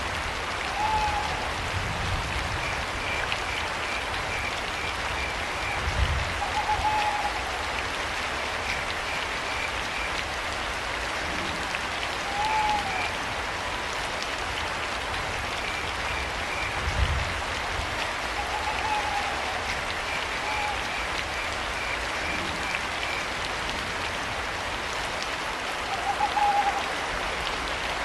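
Steady rain hissing, with crickets chirping in short rapid trains and an owl hooting in short single calls every few seconds. A few low rumbles swell up under the rain.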